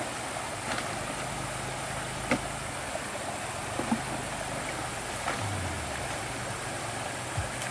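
A low, steady engine-like hum that steps in pitch, over a steady rushing noise, with a few light knocks.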